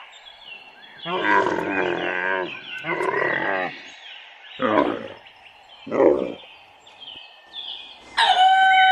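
Animal calls: two long, wavering calls, then two shorter, lower calls, and a new high-pitched call starting near the end.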